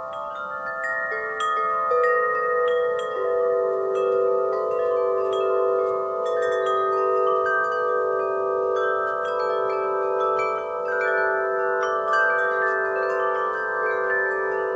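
Wind chimes struck by the breeze, many tuned tones rung at irregular moments and overlapping in long, slowly fading rings.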